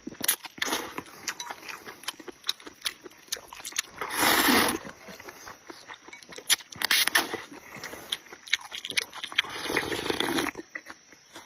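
Close-miked chewing and wet mouth smacking while eating rice noodles and pork intestine, with many small clicks. There are louder noisy bursts about four seconds in and again near the end.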